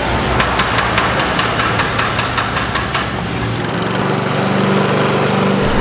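Small engine running with a rapid rhythmic knocking, about five beats a second. About three and a half seconds in it changes to a steady machine hum.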